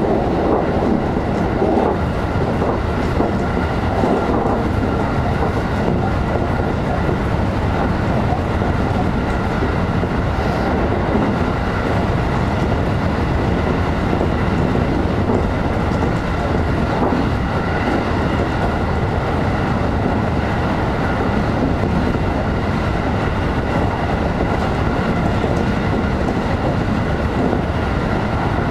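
Electric train running steadily at speed, heard from inside the front car: a constant rumble of wheels on rail with a faint steady whine above it.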